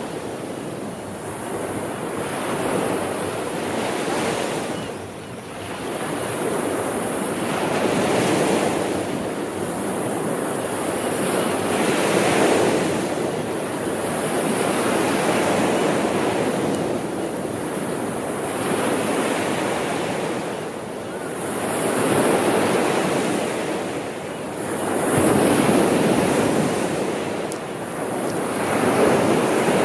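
Sea waves breaking and washing on a shore, a continuous rushing that swells and eases every few seconds.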